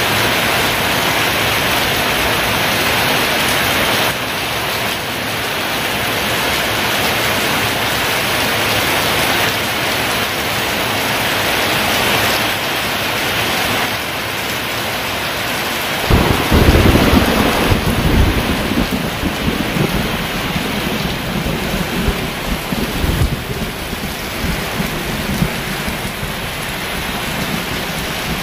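Heavy rain pouring steadily in a downpour. About halfway through, a loud clap of thunder breaks in and rolls on, rumbling low for several seconds as it fades.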